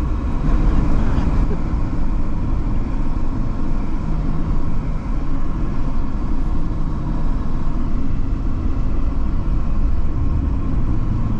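Steady road and engine rumble of a car driving on a highway, heard from inside the cabin.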